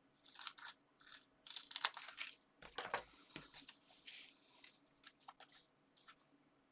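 Sheets of paper and card being handled, with a run of short, irregular rustles and crinkles.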